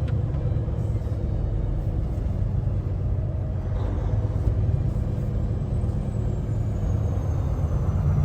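Cab interior of a 2024 Kenworth T680 semi truck under way: a steady low engine and road rumble, with a faint high whine slowly falling in pitch in the second half.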